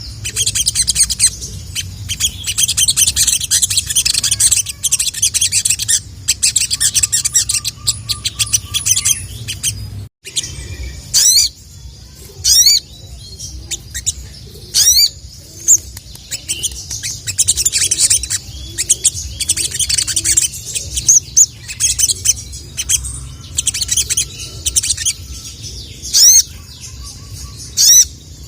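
A sogon (ruby-cheeked sunbird) singing a rapid, high-pitched chattering song. After a brief break about ten seconds in, it gives a series of loud, sharp, falling "cuit" calls between further bursts of song. A steady low hum runs underneath.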